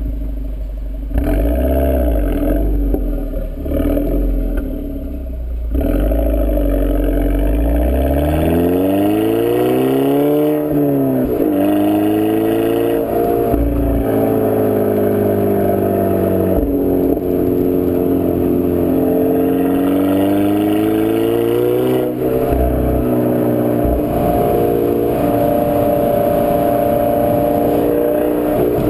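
2011 Volkswagen GTI's turbocharged four-cylinder engine breathing through an APR turbo-back exhaust, driven: a low rumble at first, then revs climbing for about four seconds, a sudden drop in pitch at a gear change, then engine pitch rising and falling gently while driving on.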